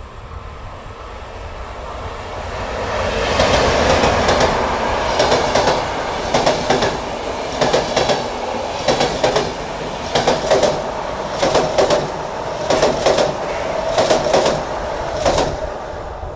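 Train passing close by. Its noise swells, then its wheels clack over a rail joint in regular pairs, about one pair every second and a bit, as each car goes by. It cuts off suddenly at the end.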